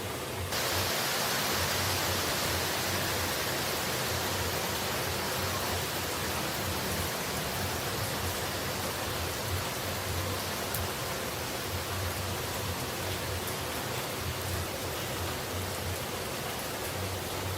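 Steady rushing of falling water, heard as an even white-noise hiss. It turns suddenly brighter and fuller about half a second in.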